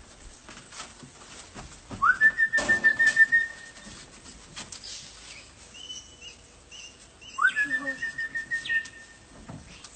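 A person whistling to call parrots: two long whistles, each sliding quickly up and then held on one warbling note, about five seconds apart. Faint short high chirps come between them.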